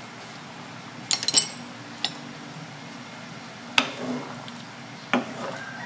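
A wooden spatula stirring a thick stew in an aluminium pan, knocking and clinking against the pan: a quick cluster of clinks about a second in, then single knocks spaced a second or two apart, over a low steady hum.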